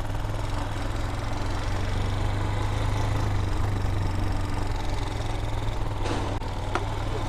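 Vitacci Raven 250 dirt bike's air-cooled 250cc engine running steadily, an even low hum with no revving.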